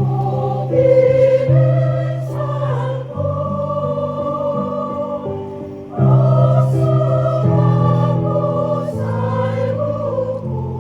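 Choir singing in held, sustained chords, swelling louder at the start and again about six seconds in.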